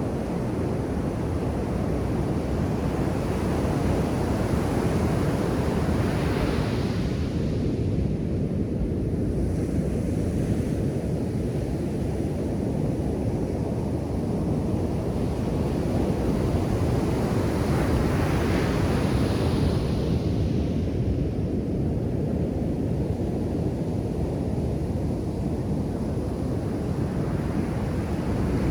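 Ocean surf breaking on a sandy beach: a steady low rumble of surf, with two waves washing in more brightly, about a quarter of the way in and again past the middle.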